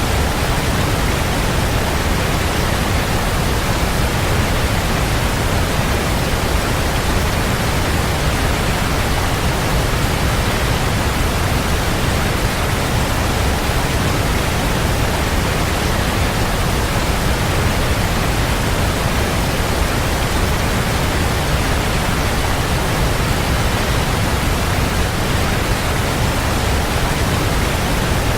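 Waterfall: a strong, steady rush of falling water, an even roar with no breaks or changes.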